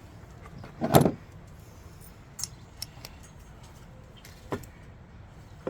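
Small metal clicks and clinks of a lawnmower carburetor's parts being handled while it is taken apart, with one sharper, louder clank about a second in.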